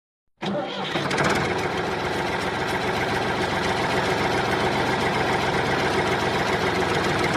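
A small engine running steadily with a fast, even beat. It starts about half a second in, after a brief silence.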